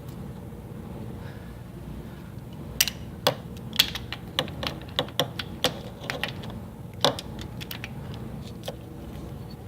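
Irregular sharp metal clicks and clinks of bolts being handled and threaded into the bellhousing joining the engine to the gearbox, starting about three seconds in and running on for several seconds. A steady low hum sits underneath.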